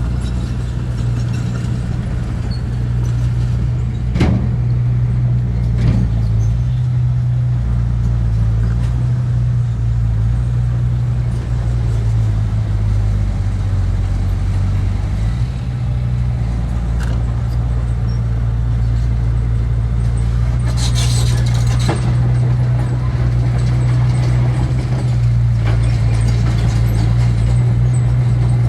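Diesel engine of heavy earthmoving machinery running steadily, with a couple of sharp knocks early on and a brief noisy burst about three-quarters of the way through.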